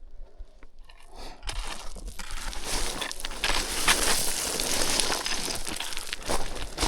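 Footsteps crunching and sliding on loose scree, starting about a second and a half in and running on as a dense crackle of small stones.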